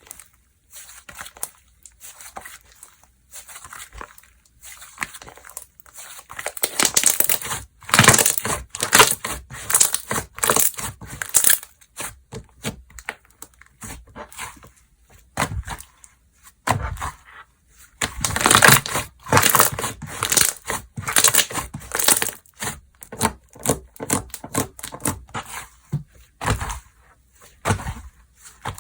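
Slime being squished, pressed and stretched by hand, making dense runs of small crackling, popping clicks. It is sparse and quieter for the first several seconds, then comes in louder stretches.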